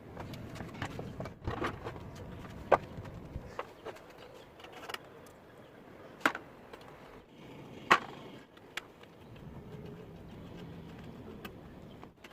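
Metal clinks and knocks from hand tools and parts being handled on an old sewing machine, irregular, with three sharper strikes standing out.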